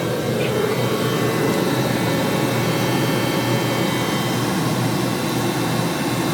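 A steady mechanical whir from a running motor.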